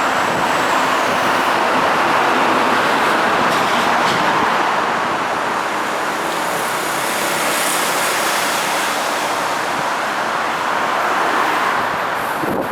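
R160 subway train running at speed, a steady loud rumble of wheels on rail with no let-up.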